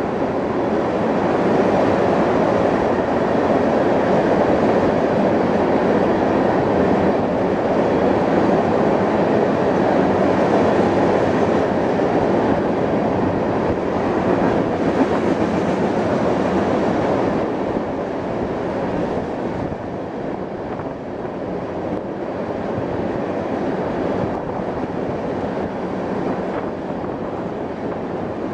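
Crude oil tank cars of a freight train rolling past: a steady rumble and rush of steel wheels on rail, easing slightly about two-thirds of the way through.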